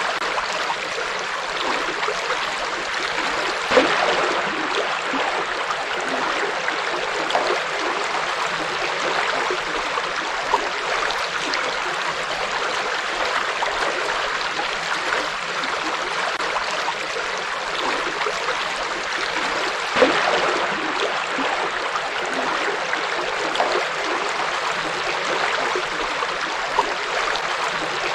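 A river flowing over rocks, a steady rush of running water with small gurgles and splashes, a slightly louder splash about four seconds in and again about twenty seconds in.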